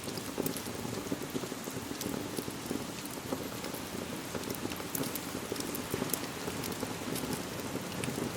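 Steady rain falling, with scattered sharp clicks throughout.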